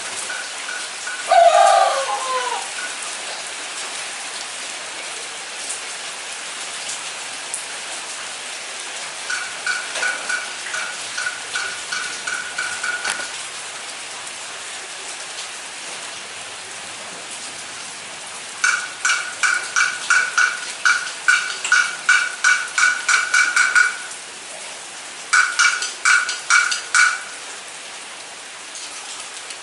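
Steady rain falling. About a second and a half in, a single loud call drops in pitch. From about ten seconds on come runs of short, sharp, pitched notes, about three a second, in bursts of a few seconds each.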